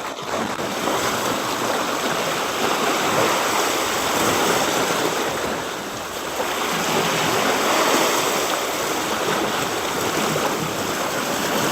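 Seawater rushing and washing along the shore in a steady noisy wash, easing briefly about six seconds in.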